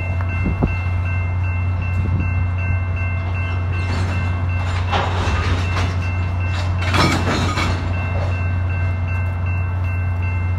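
Freight train cars rolling past: a steady low rumble with a thin high whine held throughout, and louder rattling clatters about five and seven seconds in.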